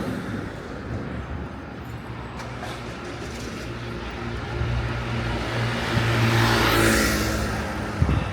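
A motor vehicle's engine running on the street, growing louder as it passes close about six to seven seconds in, with tyre hiss. A short sharp knock comes near the end.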